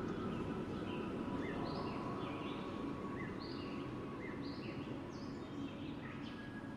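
Wind blowing steadily, with a bird chirping over it in repeated short high calls. The whole sound slowly fades.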